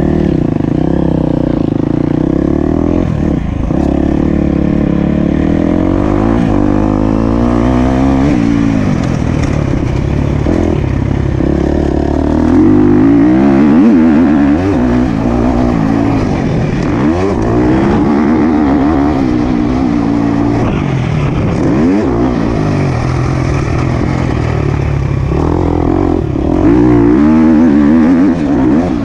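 Motocross bike engine ridden hard, its pitch climbing and dropping over and over as the throttle is opened and shut through the gears and corners.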